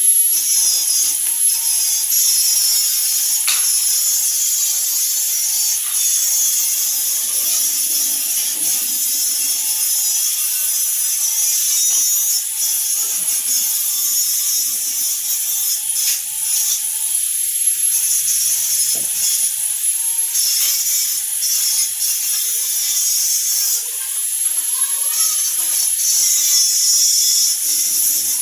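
Metalworking on iron: a steady, high hissing tool noise with a faint whine that wavers slightly in pitch, broken by short dips every few seconds.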